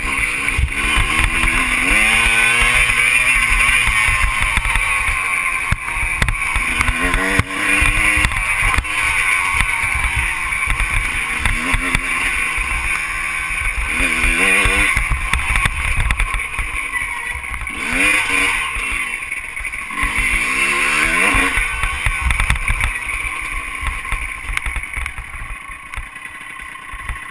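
Motocross bike engine revving up and falling back again and again, over a constant loud rush of noise; the engine fades out near the end.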